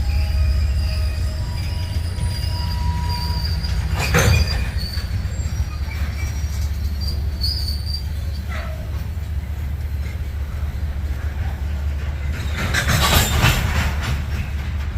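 Canadian Pacific freight train with a steady low rumble and faint high-pitched squealing tones. There is a short loud noisy burst about four seconds in and a longer one near the end.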